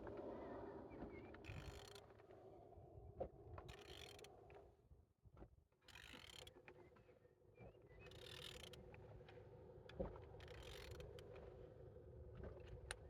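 Removed engine being slowly turned over, with faint mechanical creaking and clicking in strokes about every two seconds; it turns freely, a sign the engine is not seized.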